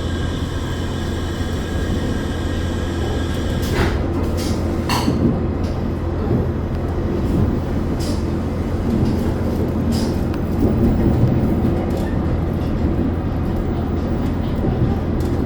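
Diesel limited-express railcar heard from inside the cabin while it stands waiting at a signal: its engines idle with a steady low hum. A set of higher steady tones cuts off about four seconds in, and a few sharp clicks or knocks sound over the next several seconds.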